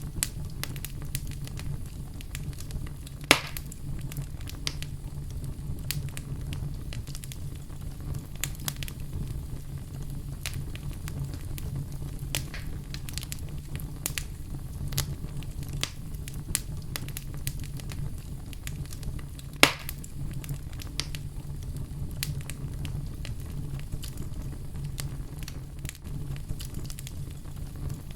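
Wood fire burning in a fireplace: a steady low rumble with scattered crackles throughout, and two louder pops, one about three seconds in and one about twenty seconds in.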